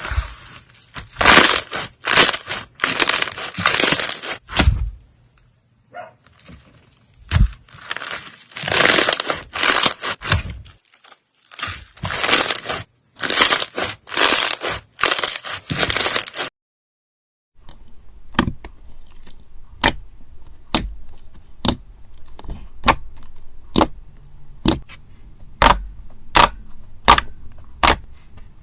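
Slime being played with for ASMR. First come repeated crunchy, crackling squeezes; then, after a brief silence, a run of sharp pops or snaps at about one a second.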